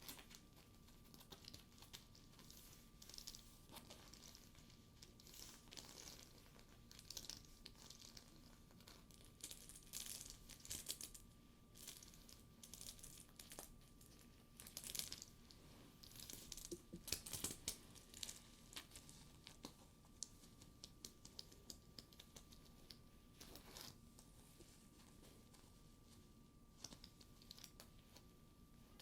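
Hands handling a studded faux leather purse: quiet crinkling and crackling of the sticky leather surface with light clicks, coming in irregular clusters that are busiest around the middle. A faint steady hum runs underneath.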